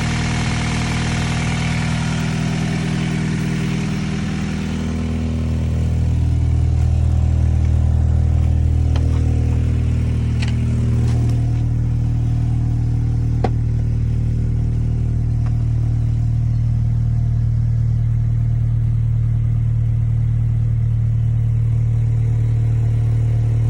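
Honda F20B four-cylinder engine idling steadily in a 1998 Honda Prelude fitted with a full aftermarket exhaust. About five seconds in the sound turns deeper and slightly louder.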